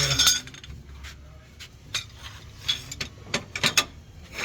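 Metal parts and tools clinking and tapping against each other during shock absorber repair work. There is a cluster of clinks at the start, then scattered sharp clicks, with several coming close together a little before the end.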